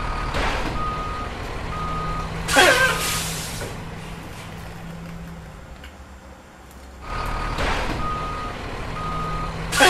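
A truck's reversing alarm beeping about once a second over a steady engine hum, with a loud hiss and falling squeal about two and a half seconds in. The same sequence starts over about seven seconds in, ending in a second hiss near the end.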